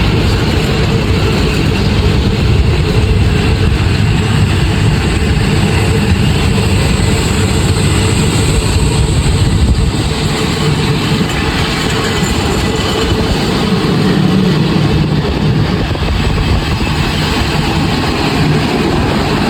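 Train running steadily, a continuous deep rumble.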